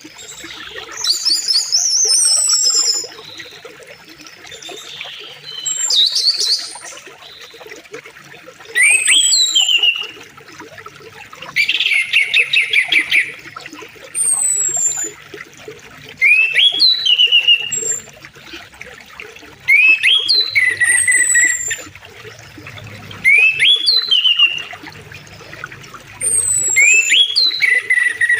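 Songbirds singing loud, whistled phrases that repeat about every three to four seconds, with rising and falling notes. Underneath is the steady sound of a flowing river.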